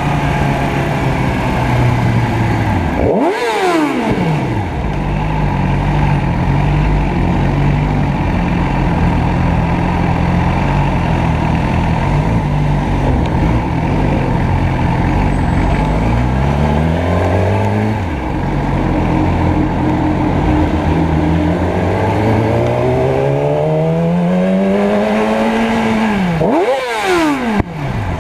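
Motorcycle engine running in traffic, its pitch climbing and falling with throttle and gear changes. About three seconds in and again near the end the revs drop sharply and climb back up, with a steadier stretch in between.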